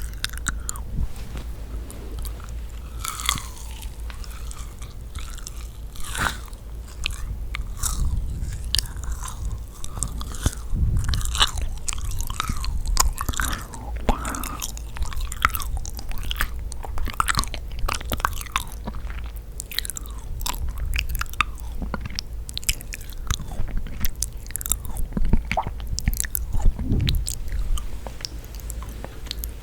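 Close-miked biting and chewing of yakgwa, sticky honey-soaked Korean fried cookies. Wet, sticky smacking and many small crackles come irregularly, bite after bite.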